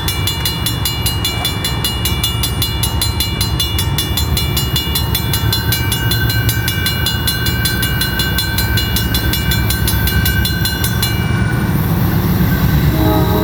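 Diesel freight locomotives rumbling as a grain train approaches, with a bell ringing rapidly until it stops about 11 seconds in. Near the end a multi-note locomotive air horn begins to sound.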